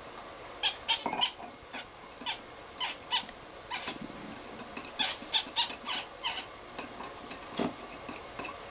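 Baby blue-fronted Amazon parrot chicks making short, raspy, high-pitched begging squeaks again and again, the hunger calls of hand-fed nestlings waiting for formula.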